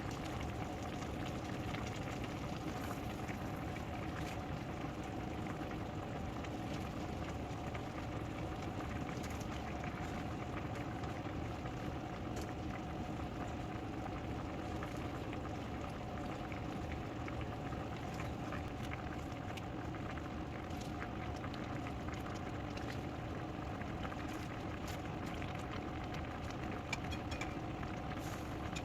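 A pot of chicken tinola soup simmering steadily at a low boil, with a constant bubbling hiss and small pops.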